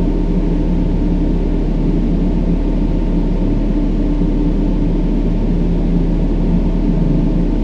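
Steady brown noise: an even, deep rumbling hiss with most of its weight low down, unchanging throughout, with a few faint steady low tones under it.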